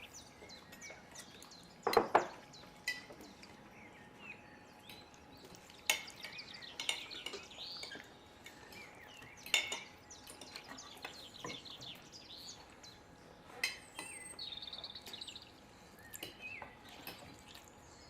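Small birds chirping, with one rapid trill a little after the middle, over occasional clinks and clatters of dishes and cutlery; the loudest is a clatter about two seconds in.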